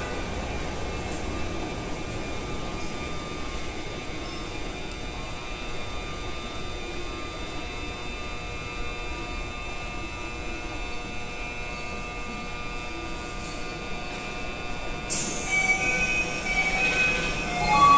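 Keikyu electric train standing at an underground platform, its onboard equipment giving a steady hum with several fixed whining tones. About fifteen seconds in, a sudden sharp sound sets in, followed by louder tones toward the end.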